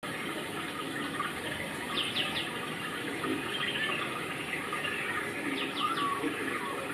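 Steady rain falling, with a bird giving short runs of three quick falling chirps about two seconds in and again near six seconds.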